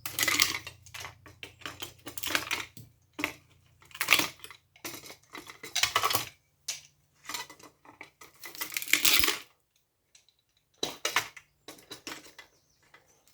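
Metal clinking and clatter as hand tools pry components off a power-supply circuit board and scrap parts knock together, in irregular bursts with a pause of about a second near three-quarters through.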